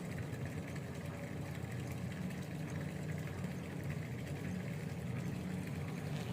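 A steady low engine hum with no change in pitch.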